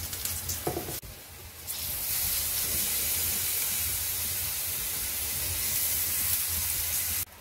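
Raw eggplant slices sizzling in hot oil on a grill pan: a steady frying hiss that comes up about two seconds in and cuts off suddenly near the end.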